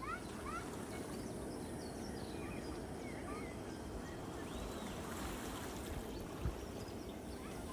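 Steady rushing seaside background noise with small birds chirping in short, scattered calls, and a soft low bump about six and a half seconds in.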